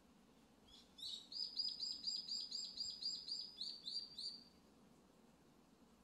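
A wild songbird singing one trill: a run of about fourteen quick, evenly repeated high notes, about four a second, starting about a second in and stopping after about three and a half seconds.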